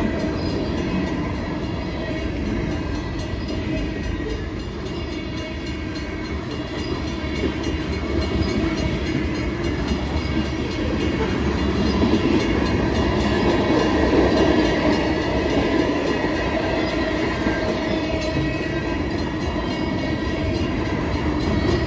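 Freight cars of a long train rolling past close by: a steady rumble and clatter of steel wheels on the rails, swelling somewhat about halfway through.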